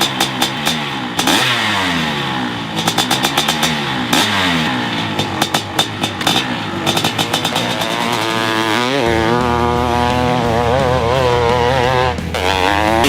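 Honda CR500 two-stroke single-cylinder dirt bike engine revving. In the first half the throttle is worked on and off, with bursts of rapid crackling pops as the revs rise and fall. From about eight seconds in it holds a high, wavering rev under steady throttle.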